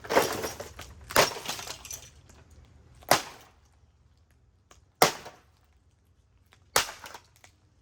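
Hoover MaxLife Total Home Pet upright vacuum's plastic body being smashed: five hard blows, spaced one to two seconds apart, each a sharp crack that dies away quickly.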